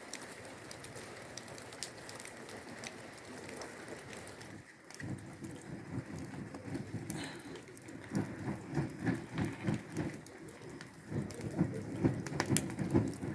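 Steady rain falling and pattering, with many sharp drop ticks. From about eight seconds in, a run of low, evenly spaced pulses joins it, a few per second.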